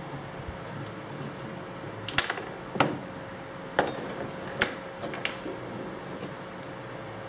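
About five sharp clicks and knocks over three seconds, drill parts being handled while the electric drill is taken apart, over a steady faint hum.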